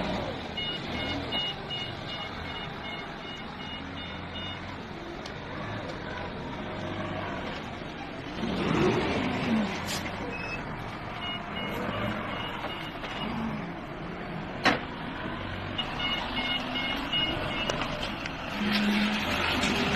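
A heavy vehicle's reversing alarm beeping about twice a second in three spells, over its engine running. A single sharp knock comes about three-quarters of the way through.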